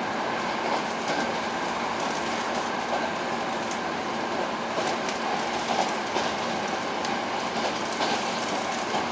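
Steady running noise of an electric limited express train at speed, heard from inside the carriage, with a few short wheel clicks over the rails.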